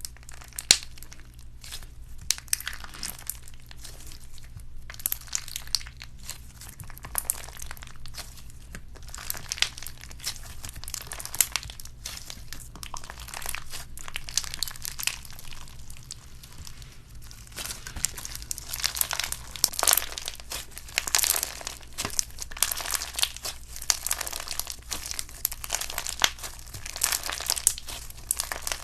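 Crunchy slime being poked and squeezed by hand, giving a dense run of irregular crackles and pops, busier in the second half.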